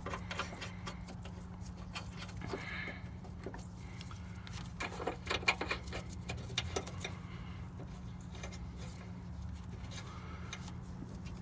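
Scattered light metallic clinks and taps of bolts and hand tools as the motor mount bolts are put back in, busiest about five to six seconds in. A steady low hum runs underneath.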